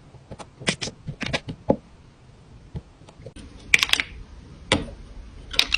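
A series of irregular sharp clicks and taps, unevenly spaced, with a quick cluster about four seconds in and another near the end.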